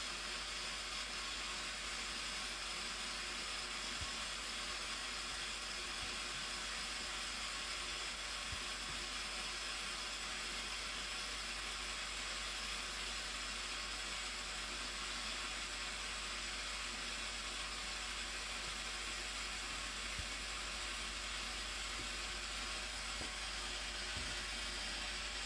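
Steady hissing rush of a waterfall, even and unbroken, with most of its sound in the higher range.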